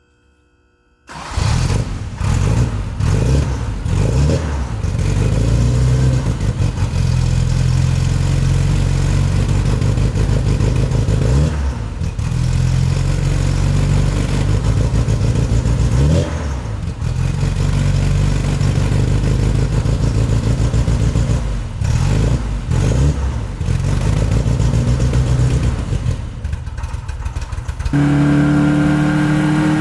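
Austin Mini's four-cylinder engine starting from cold, catching about a second in. It then runs at a lumpy idle with repeated short blips of the throttle. Near the end the note turns smooth and rises steadily as the engine revs up.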